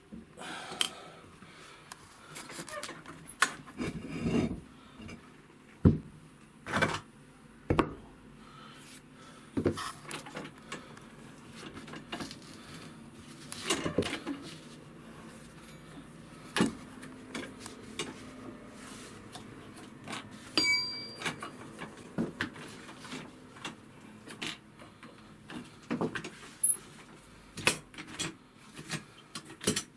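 Irregular clicks, knocks and clatter of hand tools being handled, with a short quick rattle about two-thirds of the way through.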